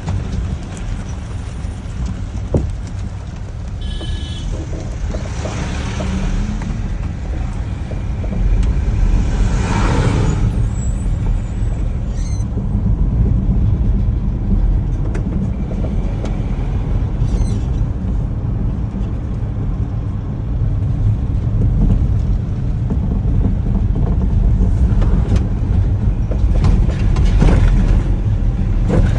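Truck engine running with a steady low rumble while driving, with brief hissing swells about six and ten seconds in.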